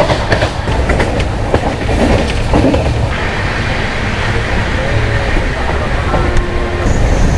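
Jan Shatabdi Express passenger coach running on the line: a steady rumble with wheel clatter over the rails, heard from inside the coach.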